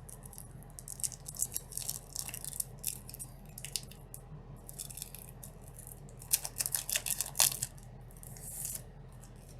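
A brick of trading cards being unwrapped and handled: plastic wrapping crinkling and tearing, with irregular clusters of short crackles and clicks from the wrap and the cards.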